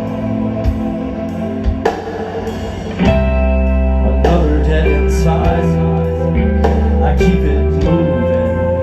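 Live rock band playing an instrumental passage: guitars holding chords over drums. The band comes in harder about three seconds in.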